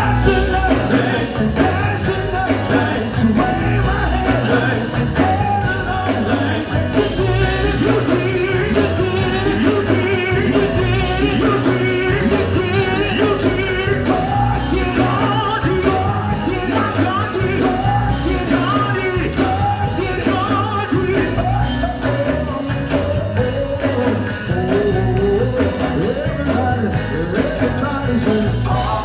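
Live gospel band playing with singing over it, driven by a steady drumbeat.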